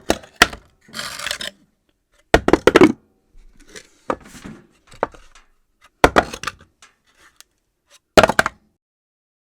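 Objects dropped onto a hard floor one after another at irregular intervals. Each drop is a sharp hit followed by a brief clatter of bounces, with about half a dozen drops, the last about eight seconds in.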